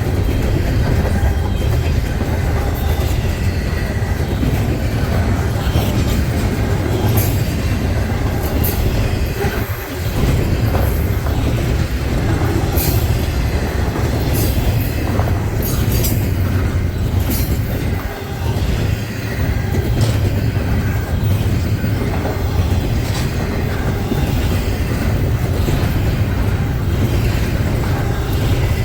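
Freight train rolling past at track side: a steady heavy rumble from the cars and trucks, with repeated sharp clicks and brief high wheel squeals throughout.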